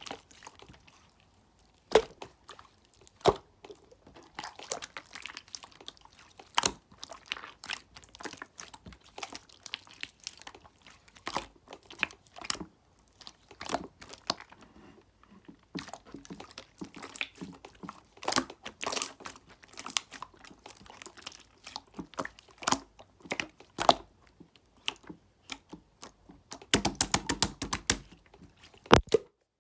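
Clear slime being squished and pressed by hand, giving scattered sharp pops and clicks, with a dense run of crackling near the end before it stops.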